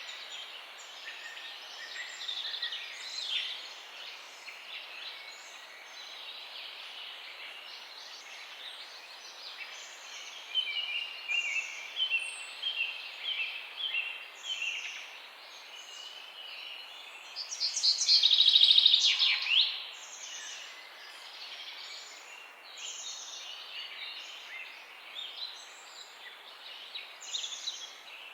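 Several songbirds chirping and singing over a steady outdoor hiss, a mix of short chirps and quick repeated notes. The loudest is a dense trill about two-thirds of the way through.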